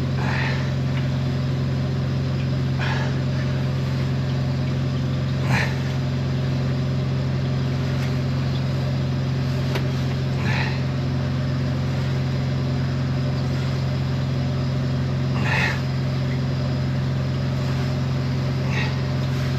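Drain jetter's engine and high-pressure pump running steadily while the hose clears silt and roots from a blocked pipe, with a few brief sharp knocks or splashes spread through.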